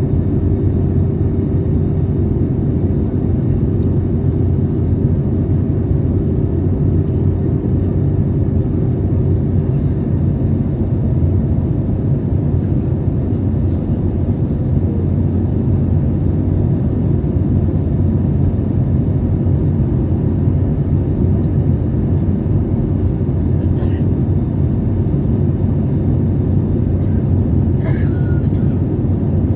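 Steady in-flight cabin noise of a passenger aircraft: a constant low drone of engines and airflow with a steady hum over it. A couple of faint clicks near the end.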